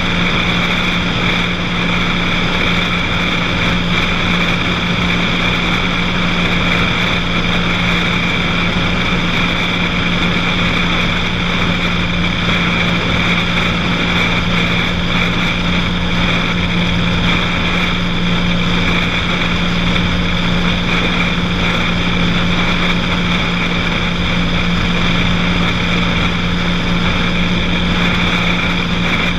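Cessna 182 single-engine light aircraft's piston engine and propeller running at a constant setting in flight: a loud, unchanging drone.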